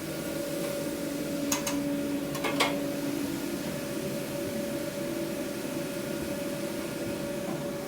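A machine running with a steady hum, over a faint hiss. A few sharp clicks come between about one and three seconds in.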